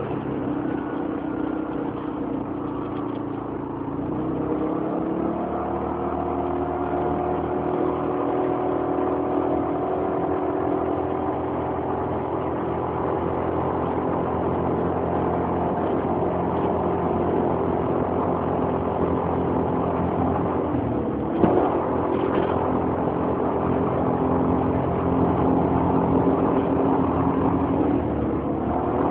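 Motorcycle engine running, its pitch rising about four seconds in and then holding steady, with one sharp knock about twenty seconds in and a dip near the end. It is running to show an abnormal noise that the owner is concerned about.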